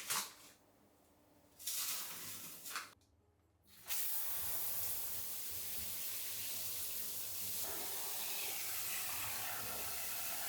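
Water running steadily from a tap into a sink, starting about four seconds in, after a few brief household sounds.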